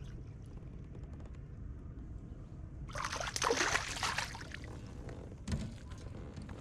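Water splashing and sloshing next to a kayak for about a second and a half midway, followed by a single knock on the hull, over a steady low rumble.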